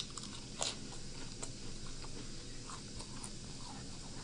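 Quiet chewing of food close to the microphone, with soft mouth clicks; the sharpest click comes right at the start and another just over half a second in.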